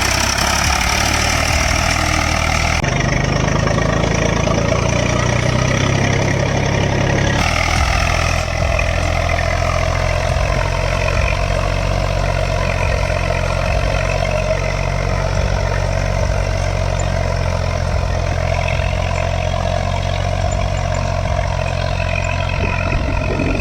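Eicher 485 tractor's diesel engine running steadily under load, pulling a two-bottom mouldboard plough in high range first gear. The tone shifts abruptly a few seconds in and again about seven seconds in.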